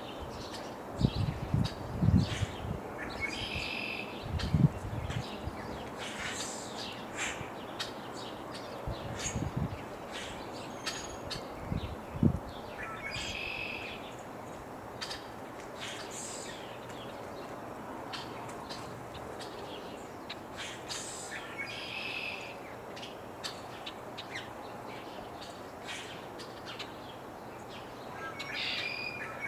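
Birds calling in a prairie ambience over a steady light breeze: many short high chirps, with one louder call repeated about every nine seconds. A few low thuds come in the first dozen seconds.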